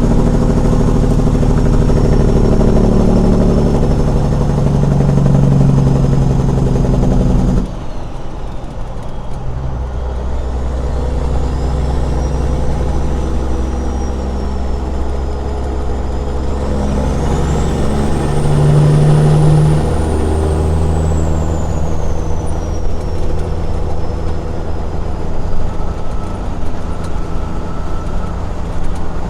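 Straight-piped Caterpillar 6NZ inline-six diesel of a big rig running loud, then dropping off abruptly about a quarter of the way in and building again over the following seconds. A thin high whistle rises and falls above the engine note.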